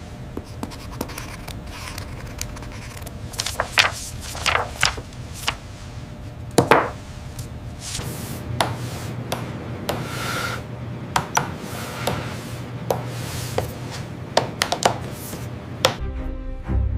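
Irregular taps and knocks, a few a second, some with a short ringing tone, over a steady low hum.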